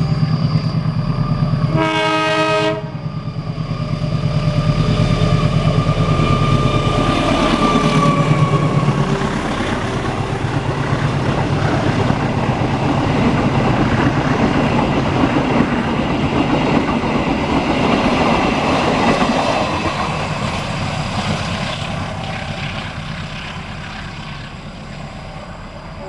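Indonesian diesel-hauled train passing close by: one short horn blast about two seconds in, then the locomotive's engine and the rumble and clatter of the wheels, swelling and then fading as the train moves away.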